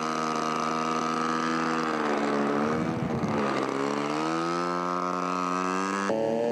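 Model aircraft engine running in flight, its pitch sagging about two seconds in and climbing back up over the next few seconds as the throttle is eased off and opened again; just before the end it switches abruptly to another engine running at a higher, steady pitch.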